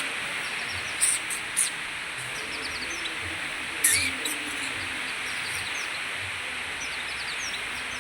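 A white-eye (pleci) twittering in quick, short high chirps, with a few louder sharp calls, over a steady hiss of rain.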